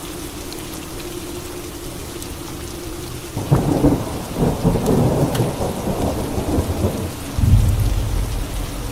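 Steady rain, then a sudden crack of thunder about three and a half seconds in that rumbles on, followed by a deeper low rumble near the end.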